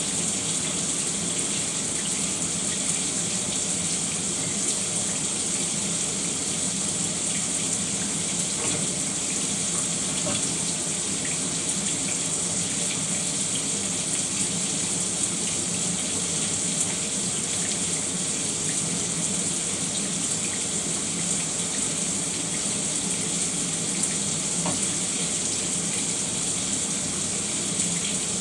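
Shower running steadily: a constant spray of water, with a bright hiss and a low rush beneath it.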